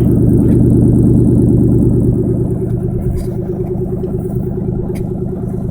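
2003 Ford Mustang Mach 1's 4.6-litre DOHC V8 running through a Magnaflow exhaust with a steady, even note. It is a little louder for the first two seconds, then eases slightly.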